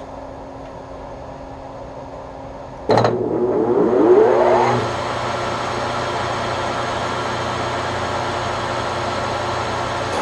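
A steady hum, then about three seconds in the Webb Whacheon lathe's motor switches on suddenly and spins up with a rising whine over about two seconds, then runs steadily in its 710 RPM setting without tripping the phase converter that powers it.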